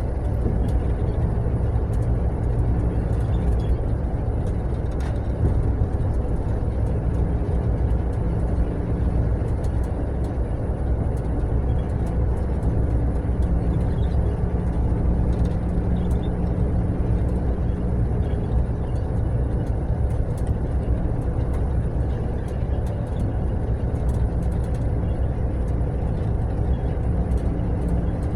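Mercedes-Benz long-distance coach bus on the move: a steady low engine drone and road rumble, with small rattling clicks scattered throughout.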